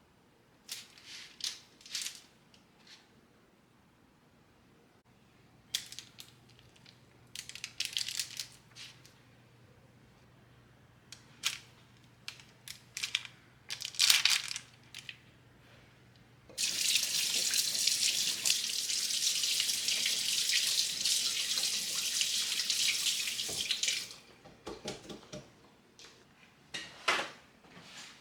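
Tap running into a sink in one steady stream for about seven seconds, with short clinks and knocks of handled objects before and after it.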